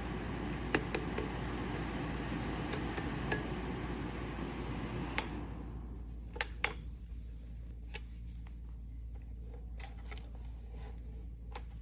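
Ceramic fan heater blowing a steady rush of air, with a few sharp clicks as it is handled. About five seconds in it shuts off and the fan winds down over about a second, leaving a low hum and more scattered clicks.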